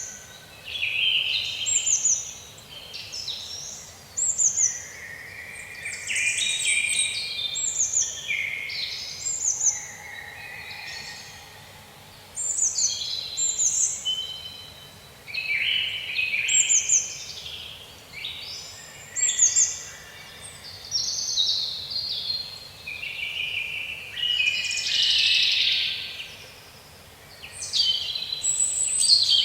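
Several songbirds singing together in a dense chorus of quick chirps and downward-sweeping whistled notes, phrase after phrase with short pauses, over a faint background hiss.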